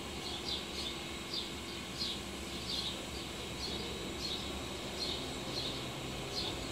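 A small bird chirping over and over, short falling chirps about twice a second at uneven spacing, over a steady outdoor background hiss.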